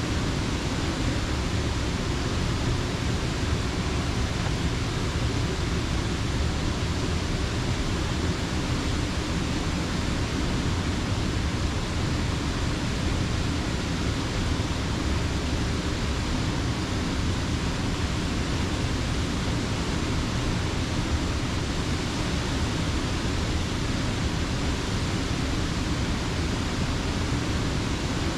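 Rushing water of Slippery Rock Creek: a steady, dense noise without a break, strongest in the deep low end.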